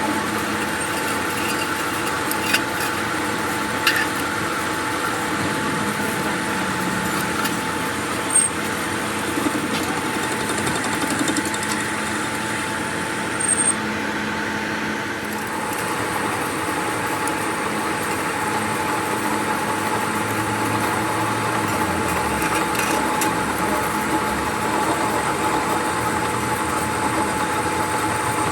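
A machine running steadily with a constant hum, with a few sharp knocks in the first half.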